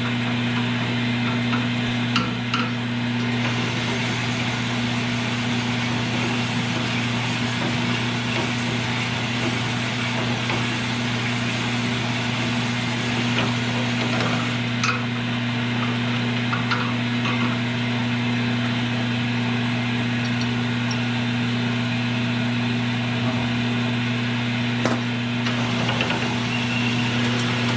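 Electric power tool running steadily with a low hum and a grinding, rasping noise, taking metal off a few thousandths of an inch at a time to bring an engine part to size, with a couple of faint clicks.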